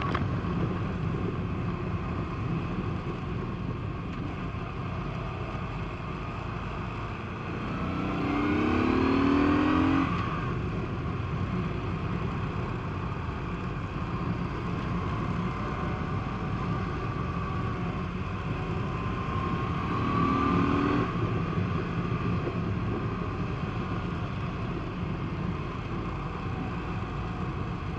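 Honda PC800's V-twin engine running under way over steady wind rush, with the engine note rising as the bike accelerates about eight seconds in and again about twenty seconds in.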